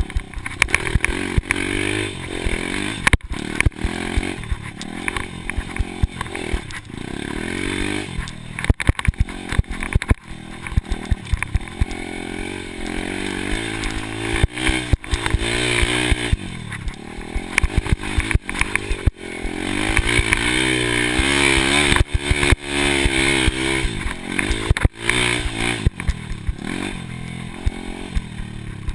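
Motocross dirt bike engine revving up and down over and over as it is ridden, with frequent sharp knocks and clatter; the revs climb highest and loudest a little past two-thirds of the way through.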